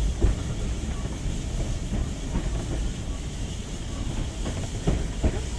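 Steam-hauled passenger train running along the track: a steady low rumble with irregular clicks and knocks from the wheels on the rails, sharpest just after the start and again near the end.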